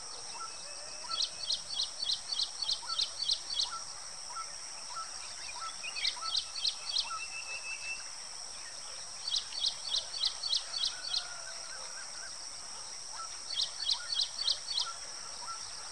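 Ashy prinia singing: four runs of rapid, evenly repeated high notes, about four a second, over a steady high-pitched drone.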